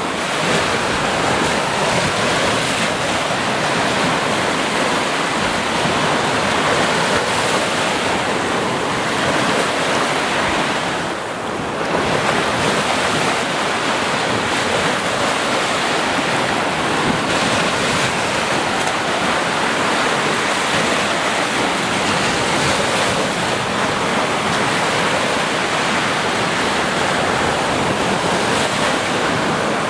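Sea waves breaking and washing on a beach in a steady rush of surf, easing briefly about eleven seconds in.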